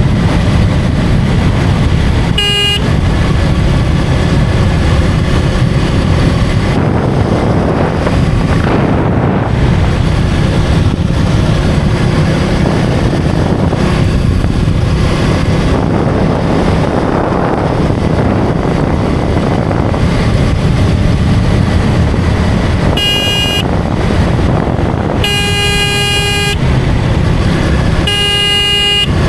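A KTM Duke 250's single-cylinder engine running at road speed under steady wind rush. A vehicle horn honks briefly about two seconds in, then three more times near the end.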